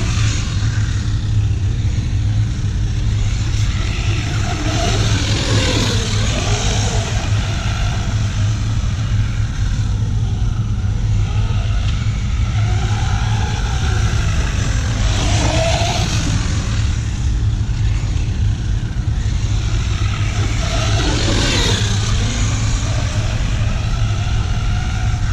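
Electric R/C monster truck driving, its motor whining up and down in pitch several times as it speeds up and slows, with bursts of tyre hiss over a steady low rumble.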